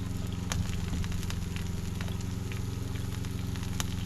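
Food sizzling and popping on the hot grate of a kamado charcoal grill, scattered sharp pops over a steady low hum.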